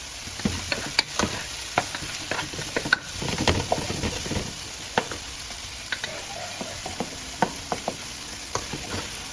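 Chopped onions, scallions and green and red bell peppers sizzling in hot oil while being stirred, with frequent short clicks and scrapes of a utensil against the pan. The vegetables are being sautéed only halfway.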